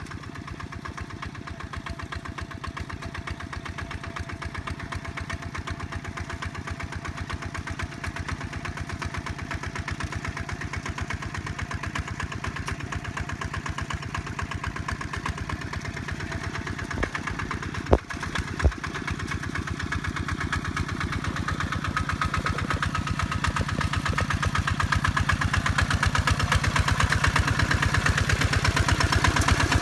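Kubota tractor's diesel engine running steadily under load in a flooded rice paddy, its firing pulse even, growing louder as it draws closer. Two sharp knocks a little over halfway through.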